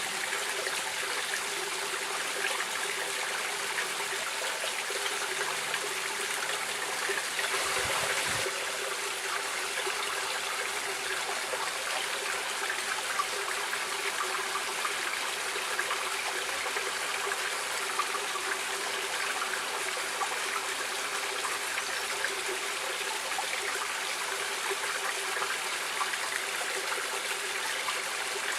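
A stream of water running steadily over rocks, a continuous rushing and trickling, with a brief slightly louder surge about eight seconds in.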